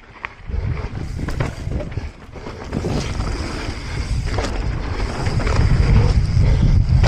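Wind buffeting the action-camera microphone and tyres rolling over a dirt trail as a mountain bike descends, getting louder as speed builds, with scattered knocks and rattles from the bike over rough ground.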